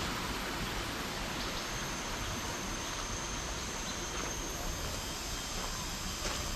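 Steady outdoor ambience: an even hiss with no clear events. A faint thin high tone runs for a couple of seconds in the middle.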